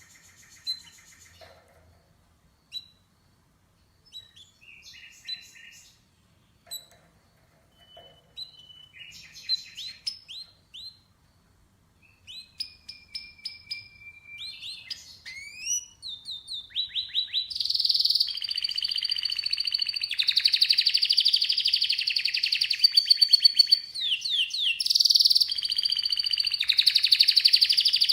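Canary singing: scattered short chirps and brief phrases at first, building from about halfway through into loud, continuous song of rapid trills and gliding notes, with a short break near the end.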